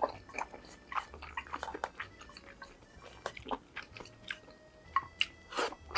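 Close-miked chewing of food, with many short, irregular wet mouth clicks and smacks.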